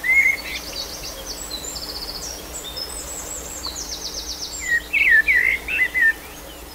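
Birdsong: fast high trills and whistles, with lower chirps at the start and a louder run of chirps about five seconds in.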